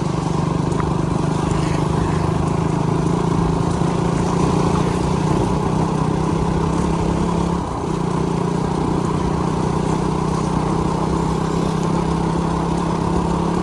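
Motorcycle engine running at a steady speed while riding, over a steady rushing noise. A little past halfway the engine note drops out briefly, then picks up again.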